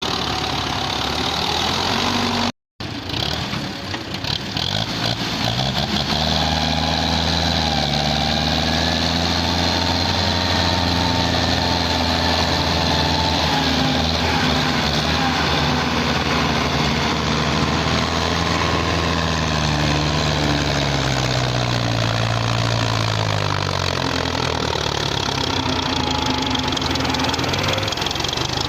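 Tractor diesel engine running under heavy load as it pulls a mud-laden trolley, its revs rising and falling slowly. The sound cuts out briefly a few seconds in.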